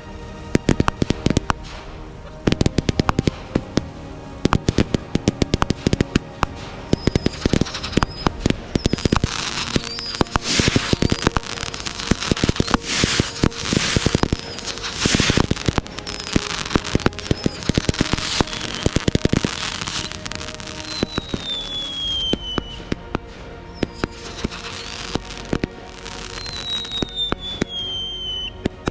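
Fireworks going off: rapid crackling and repeated bangs, densest around the middle, with two whistles falling in pitch near the end.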